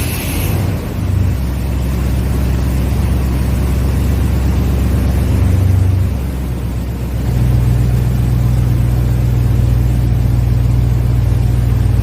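Freshly rebuilt Chevy truck engine running just after its first start, a steady low drone. It swells briefly about five seconds in, then settles to a slightly higher steady idle from about seven seconds; the timing has yet to be fine-tuned.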